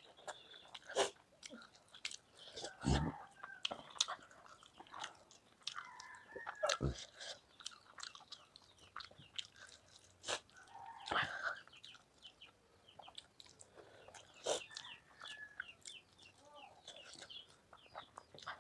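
Close-up eating sounds of rice and palak paneer eaten by hand: irregular wet chewing and lip smacks, with scattered clicks of fingers against a steel plate. Two heavier thumps come about 3 and 7 seconds in.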